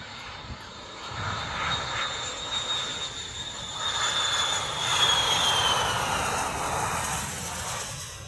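Airliner on landing approach passing close, its engine roar building to a peak about five seconds in and easing off, with a high whine that drops in pitch as it goes by.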